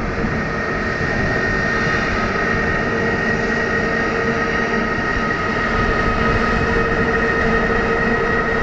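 Airliner engines running steadily at taxi power: a constant rush and rumble with a few steady whining tones held over it.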